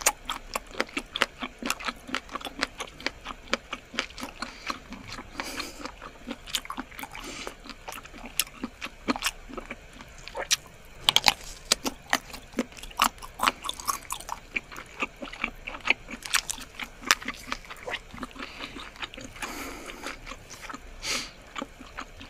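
Mukbang eating sounds: a person chewing squid, with a dense, irregular run of sharp mouth clicks and smacks.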